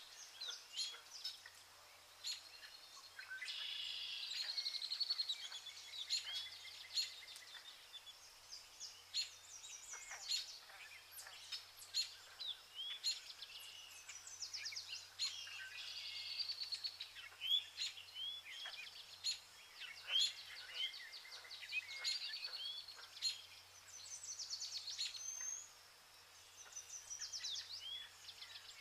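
Small birds chirping and trilling over a faint outdoor ambience, with short sharp calls and quick rattling trills coming every second or so.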